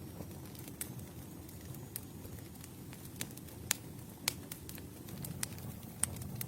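Campfire burning: a steady low rumble of flames with sharp, irregular crackles and pops from the wood every second or so.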